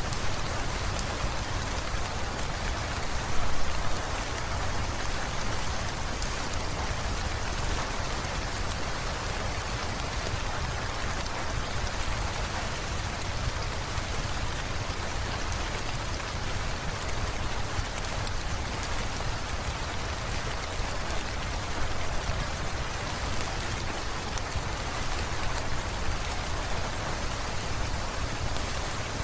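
Steady rain falling: an even hiss with fine drop ticks and a low rumble underneath, with a brief louder swell about three seconds in.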